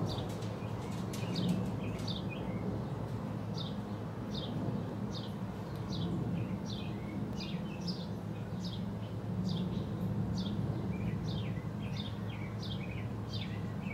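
A bird chirping over and over, short high calls that each fall in pitch, coming about every half second or so and bunching closer together near the end, over a steady low hum.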